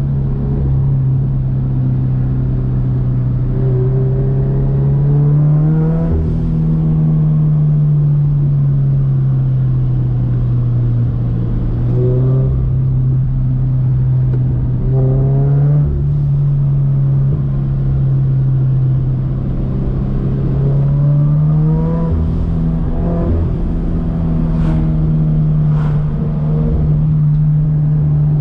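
Turbocharged Scion FR-S's flat-four engine under way: a steady drone, with the revs climbing and falling back several times as the car accelerates and eases off.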